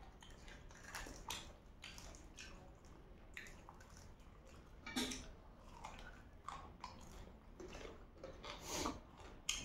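Faint chewing and biting of cooked chicken feet by two people eating, heard as scattered short clicks and smacks from the mouth.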